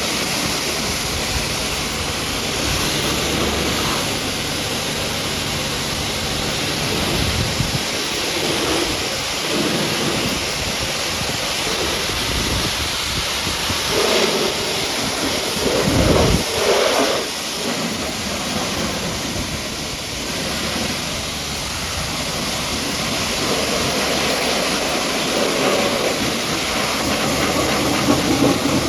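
High-pressure washer jet spraying water onto a muddy truck: a steady dense hiss of spray, with a few louder, deeper surges midway as the jet hits different surfaces.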